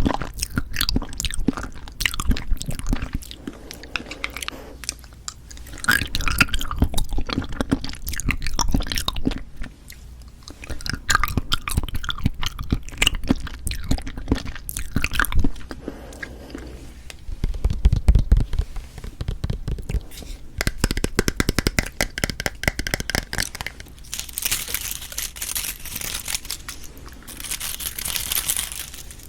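Close-miked wet chewing and biting of cheonhyehyang citrus cup jelly, with clicky mouth sounds coming in bouts separated by short pauses. Near the end come two louder, hissier stretches.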